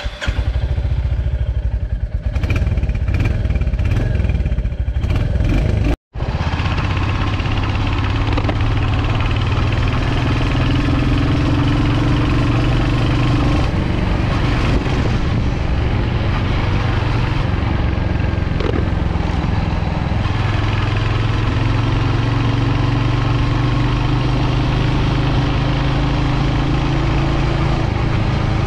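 Royal Enfield Hunter 350's single-cylinder 349 cc engine and exhaust running steadily as the motorcycle is ridden, its pitch shifting a few times with speed. The sound cuts out for an instant about six seconds in.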